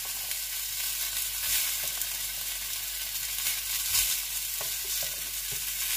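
Carrots and asparagus sizzling in butter in a steel frying pan, a steady sizzle. A few faint clicks of metal tongs against the pan as the vegetables are turned.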